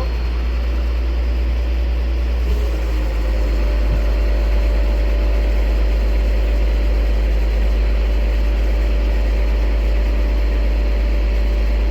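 Engine of a hoisting crane running steadily: a loud, unchanging low rumble with a constant hum above it.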